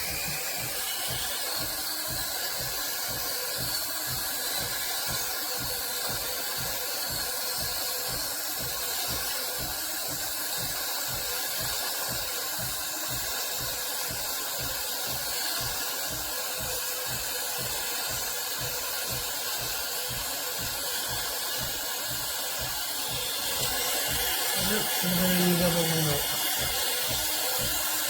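De'Longhi Eletta Explore automatic espresso machine running a latte cycle: a steady steam hiss over an even low pulsing from its pump. It gets briefly louder near the end.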